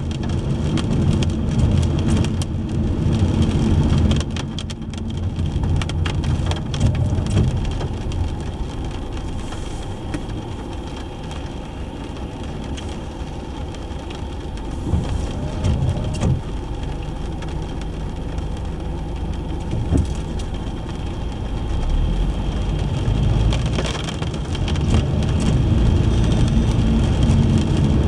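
Car driving in the rain: a steady rumble of engine and tyres on wet road, with rain hitting the car.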